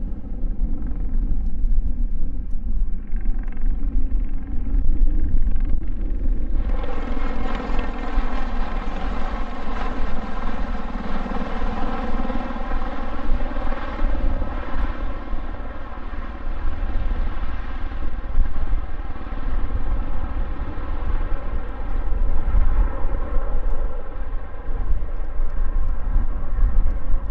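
Aircraft engines running steadily, their sound swelling suddenly about six and a half seconds in into a full, many-toned drone that holds, over a heavy low rumble of wind on the microphone.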